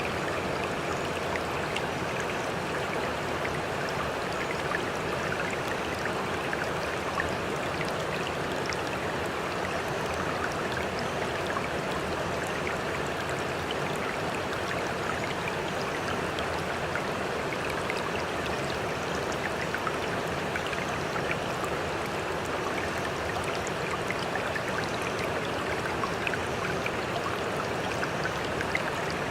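Sea water sloshing and rushing steadily, with many small splashing ticks and no separate wave crashes or swells.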